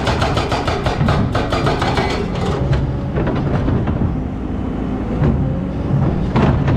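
Excavator's diesel engine running under rapid metallic clattering, about four to five clanks a second. The clatter eases off in the middle and picks up again near the end.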